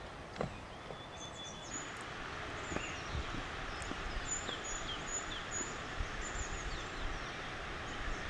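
Outdoor ambience: scattered short, high bird chirps over a steady hiss that grows louder about two seconds in, with a few faint low thumps.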